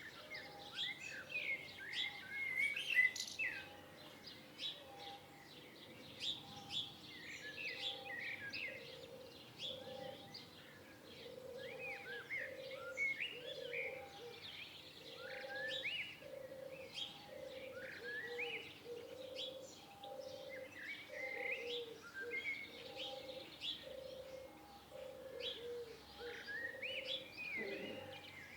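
A chorus of songbirds chirping and singing in many short rising and falling whistled notes. Beneath them, a low note is repeated about once a second.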